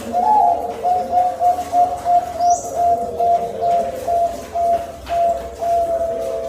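Zebra dove (perkutut) cooing: a long, rhythmic string of short, clipped coo notes, about two or three a second, over a lower steady cooing tone.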